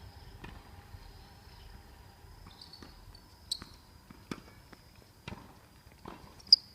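Tennis ball being hit and bouncing in a rally: a handful of sharp knocks about a second apart, the loudest near the end. A steady high insect trill runs underneath.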